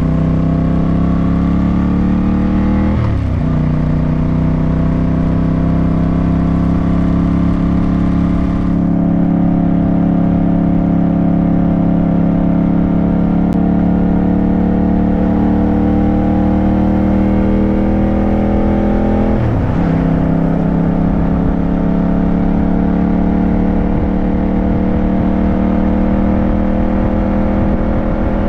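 Yamaha motorcycle engine pulling under load, its pitch slowly climbing through each gear. It shifts up twice, about three seconds in and again near twenty seconds, each shift a brief dip before the pitch settles lower and climbs again.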